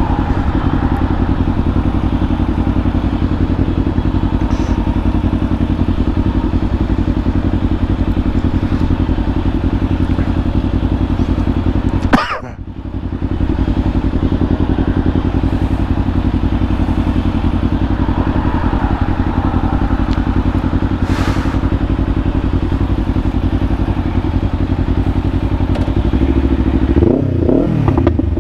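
Kawasaki Ninja 500's parallel-twin engine idling steadily, with one sharp knock about twelve seconds in and a brief shift in the engine note near the end.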